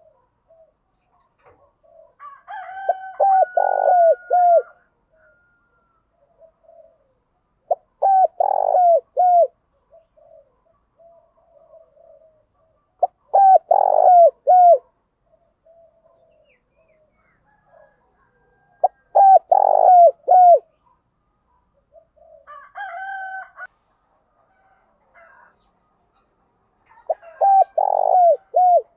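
Spotted doves cooing: phrases of three or four quick coos repeated about every five or six seconds, with softer calls between them. These are the calling and coaxing coos that keepers play to stir caged birds into calling.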